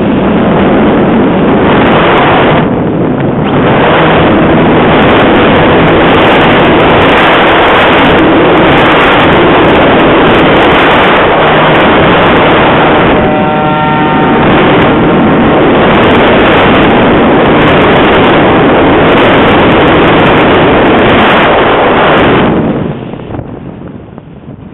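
Heavy wind buffeting the microphone: a loud, unbroken rush that eases briefly near the end.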